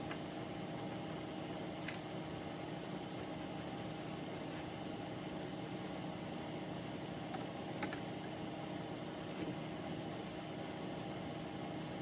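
Steady low background hum with a few faint, sparse light clicks and taps of small tools and parts being handled at a workbench.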